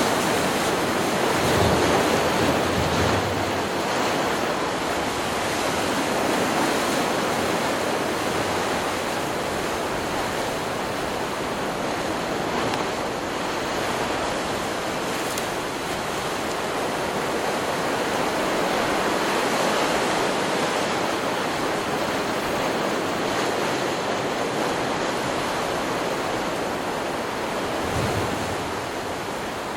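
Stock recording of ocean surf: waves breaking and washing in, a steady rushing that swells and eases, with a couple of low thumps about two seconds in and near the end.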